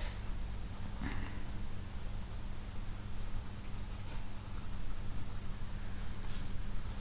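2B graphite pencil sketching on sketchbook paper, scratchy strokes coming in bursts, over a steady low hum.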